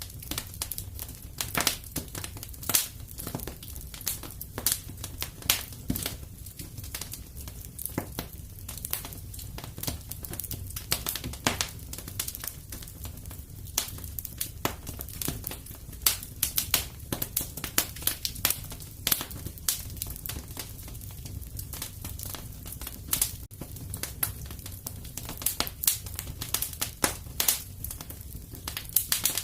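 Wood fire in a fireplace burning, with frequent irregular sharp crackles and pops over a low steady rumble.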